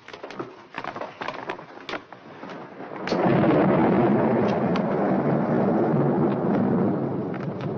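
Thunder rumbling in a storm. A few scattered crackles come first, then a loud, steady rumble sets in suddenly about three seconds in.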